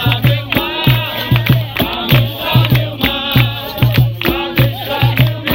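Capoeira roda music: a low drum beating a steady rhythm, shaker rattles, and a group singing together.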